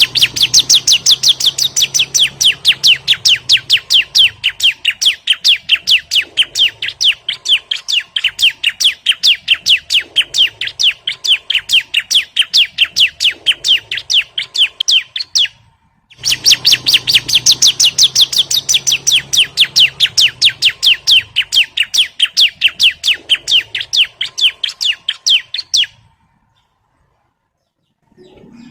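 Bar-winged prinia (ciblek) calling: a long, fast, even series of sharp high chirps, each sweeping downward, about four a second. It comes in two runs with a short break about fifteen seconds in, and stops a couple of seconds before the end.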